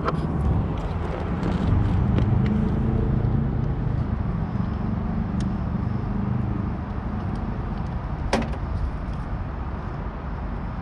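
Steady low machine hum and rumble, with a few light clicks and one sharp click about eight seconds in.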